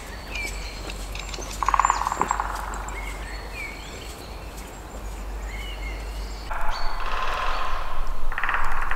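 Spring woodland birds singing, with many short high chirps and whistles. Louder rasping bursts come about two seconds in and again in the last few seconds.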